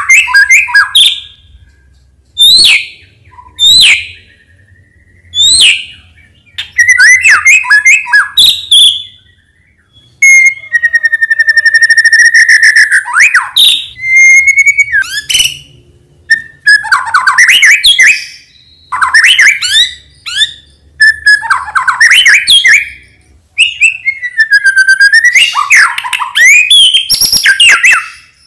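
White-rumped shama (murai batu) in full, vigorous song: loud phrases of sliding clear whistles and rapid trills, each a second or two long, broken by short pauses. The song has a rich, varied repertoire, as shama keepers seek in a tutor bird.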